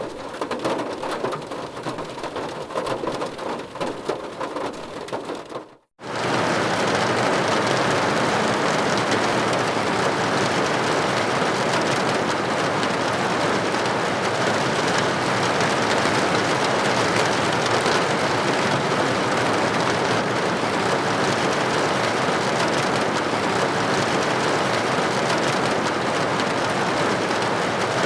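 Rain falling, patchy with distinct drop ticks at first, then dropping out to silence for a moment about six seconds in. It resumes as louder, denser, very steady heavy rain.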